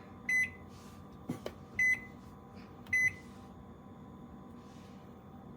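Toshiba microwave air fryer combo's control panel beeping: three short, identical high beeps about a second apart, each a keypress being registered, with a light click between the first two and a faint steady hum underneath. The panel answers at the lightest touch.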